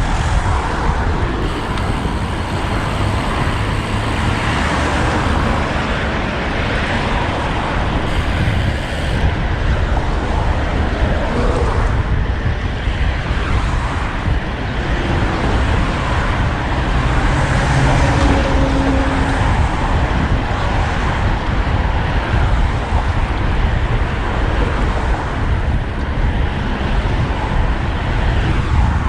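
Steady road traffic noise with car engines and tyres, heard from a road bike on the move, over a heavy low rumble.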